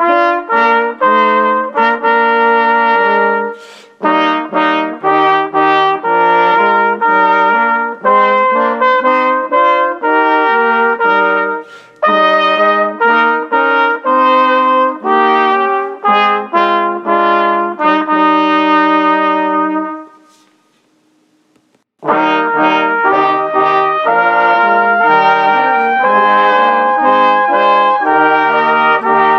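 Brass ensemble playing a slow hymn-like piece in chords, phrase by phrase; a phrase ends on a long held chord about twenty seconds in, a short silence follows, then the playing resumes.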